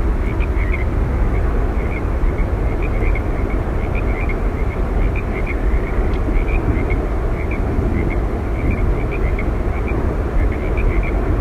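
Steady roar of Yosemite Falls, a deep, even rush of falling water, with short high chirps scattered throughout.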